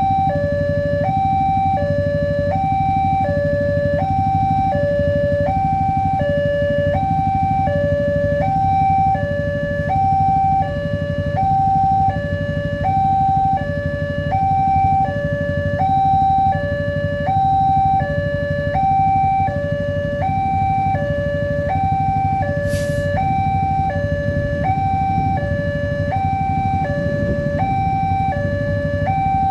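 Railway level-crossing warning alarm sounding an electronic two-tone signal, high and low notes alternating about every half second, which warns that a train is approaching and the barriers are closing. A steady low rumble runs underneath, and there is one brief click about three quarters of the way through.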